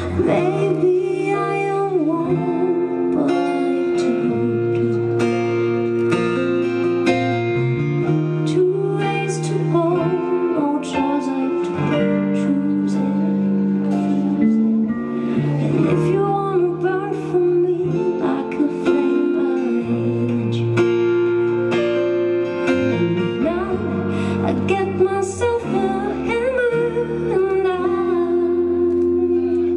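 A band playing a song: guitar with bass notes, with a voice singing along.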